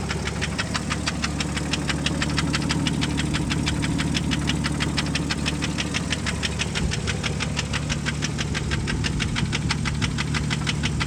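Jeep 4.0-litre inline-six engine running with a rapid, regular knock, several sharp taps a second over the steady engine tone. It is a little louder for a few seconds in the middle.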